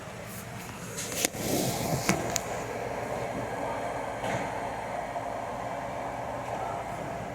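GE washing machine starting up: a few sharp clicks and knocks, then a steady rushing noise sets in about a second in and keeps going.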